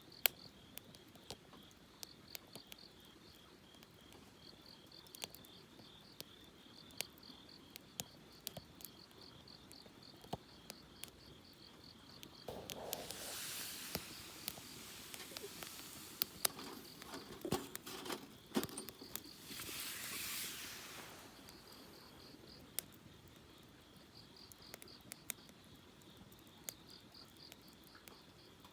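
Wood campfire crackling with frequent sharp pops, over a steady pulsing chirr of insects at night. Two louder rushes of hiss come about midway, a few seconds apart.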